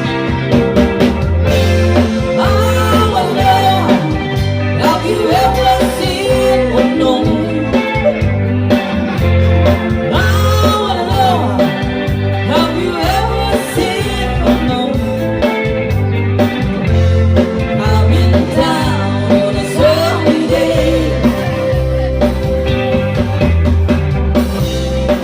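Rock song with a singer over guitar and a steady bass line.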